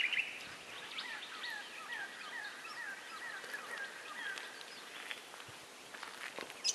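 Muscovy ducklings peeping: a run of short, falling peeps, about two a second, that stops a little past the middle.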